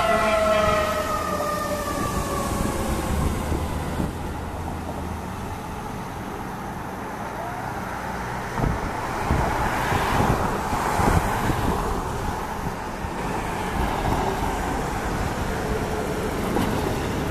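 Fire engine siren winding down, its pitch falling slowly and fading over the first few seconds, followed by the steady noise of the engine and traffic on the road.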